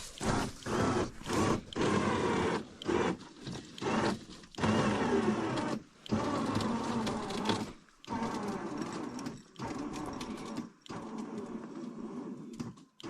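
Hand tools being worked on the truck's shock mount: a run of irregular creaking, clicking strokes, some short and some over a second long, with brief pauses between them.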